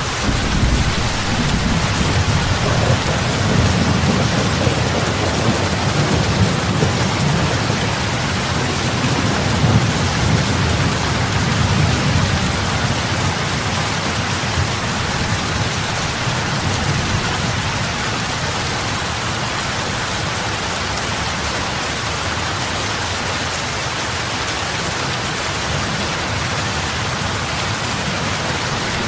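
Heavy rain falling steadily on open lake water, a dense even hiss of drops and splashes. A low rumble underneath is stronger through the first half and eases off later.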